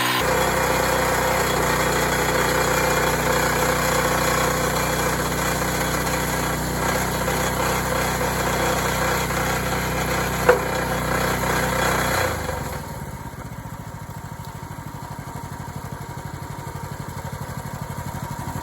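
Log splitter's small gasoline engine running steadily, with one sharp knock about ten seconds in; about two seconds later the sound drops suddenly to a quieter, lower running.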